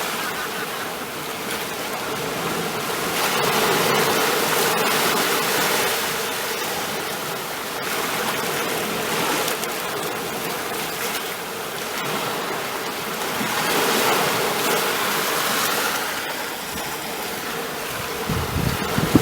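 Ocean surf: a steady rush of waves that swells and recedes, loudest about four seconds in and again about fourteen seconds in. A short low rumble comes near the end.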